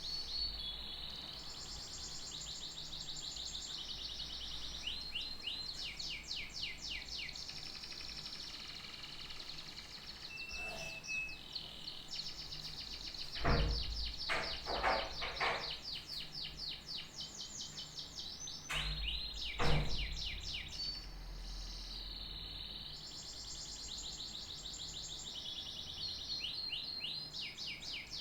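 Canary singing a long, nearly unbroken song of rapid trills and rolled phrases. A few sharp knocks cut in around the middle, the loudest sounds in the stretch.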